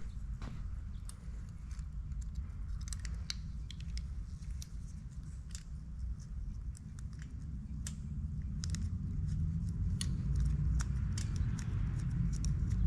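Light, irregular metallic clicks and clinks of small valvetrain parts, lifters, lifter guides and hold-downs, being handled and set into an engine block, over a low steady rumble that grows a little louder in the second half.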